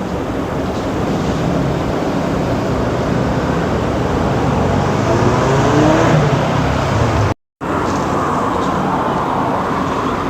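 Steady road-traffic noise, with a passing vehicle's engine note gliding about five seconds in; the sound cuts out completely for a moment about seven seconds in.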